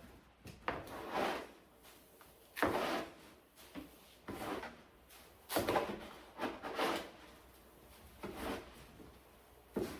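A litter scoop digging into and sifting cat litter in a litter box: a string of irregular scraping, gritty rattles, roughly one every second.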